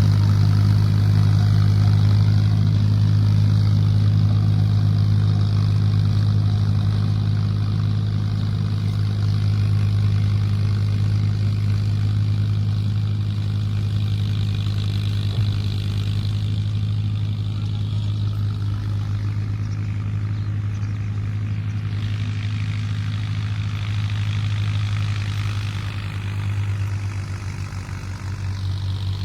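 Mahindra 265 tractor's diesel engine running steadily with a deep, even hum, easing off slightly near the end.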